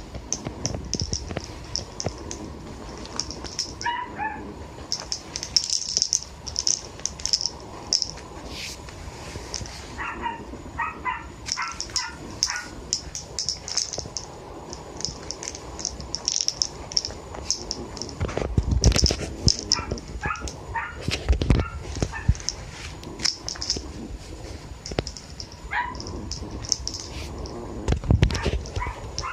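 A dog whining and yipping in quick runs of short, rising cries, several times. Throughout there is a repeated high rattling, and a few heavier thumps come in the second half.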